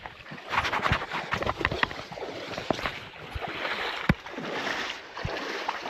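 Water sloshing and splashing as someone wades through a river current, with scattered knocks and thumps, the sharpest about four seconds in.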